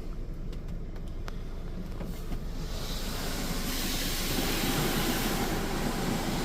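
Water spraying from a Laserwash 360+ touch-free car wash arm onto the car, heard from inside the cabin over a steady low hum. The hiss of spray swells up about three seconds in and fades again as the arm passes, likely during the rinse stage.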